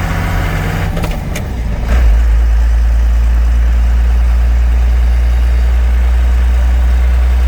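1993 Dodge W250's 5.9-litre 12-valve Cummins inline-six turbo diesel idling steadily. There are a couple of sharp clicks about a second in, and from about two seconds in the engine's low hum becomes louder and deeper.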